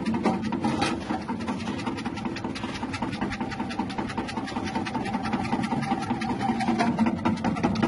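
Electric chip-slicing machine with a 180-watt motor running: a steady motor hum under a fast, even ticking from the rotating blade.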